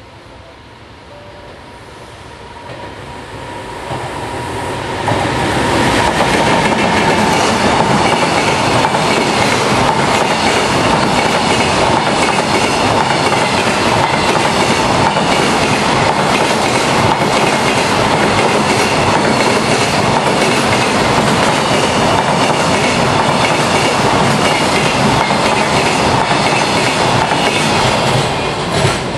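Container freight train approaching and passing close by at speed: the rumble builds over the first five seconds, then steady loud wheel noise on the rails with a rhythmic clickety-clack as the container wagons go by, easing off right at the end.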